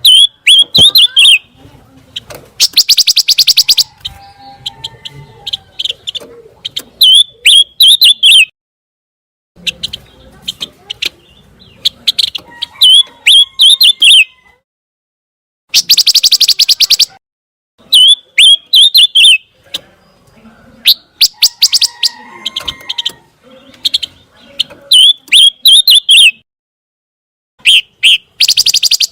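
Pancawarna bird singing: phrases of one to three seconds with short pauses between, alternating rapid buzzy trills with series of sharp, falling chirps.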